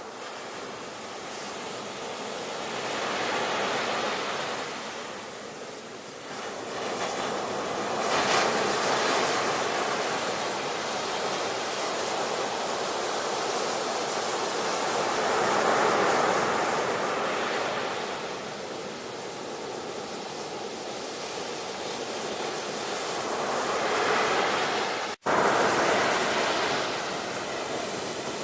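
Ocean surf: waves breaking and washing, the rush of water swelling and fading every several seconds. About 25 seconds in, the sound cuts out for an instant and then resumes.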